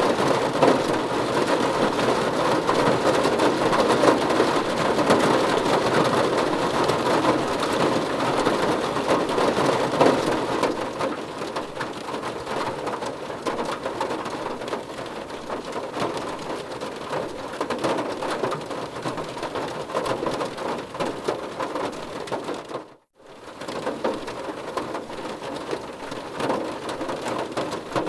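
Heavy rain falling steadily, with dense close drop patter on a surface. The level drops somewhat about ten seconds in, and the sound cuts out completely for a fraction of a second a little past the twenty-second mark, like an edit splice, before resuming.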